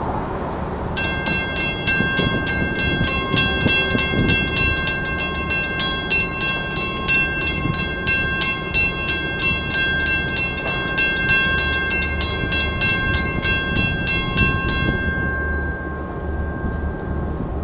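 Level crossing warning bell ringing rapidly, about three strokes a second, over the low rumble of a passing Long Island Rail Road commuter train. The bell stops about 15 seconds in, its tone dying away after.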